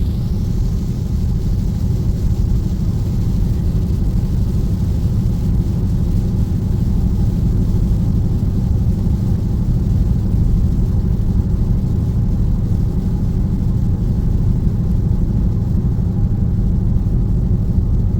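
Steady low drone inside the cabin of a Dodge Scat Pack cruising at highway speed: its 6.4-litre V8 and tyre noise on a wet road.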